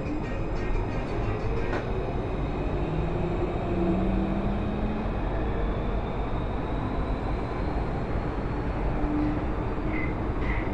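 Onboard sound of an Alstom AS-02 metro train running: steady rumble of wheels on rail, with thin motor whine tones rising in pitch as the train picks up speed. Two short high squeals near the end.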